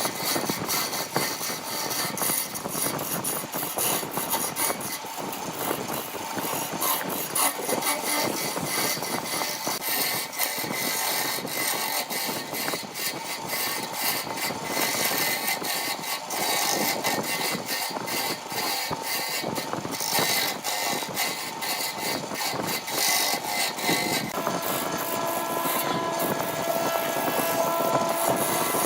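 A wood lathe running while a turning tool cuts the spinning wood, making a continuous dense scraping noise. About three-quarters of the way through, a steady whine joins it.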